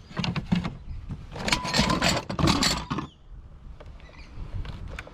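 Clattering and scraping of a heavy piece of discarded junk being handled, with a run of loud knocks and rattles between about one and a half and three seconds in, over a steady low rumble.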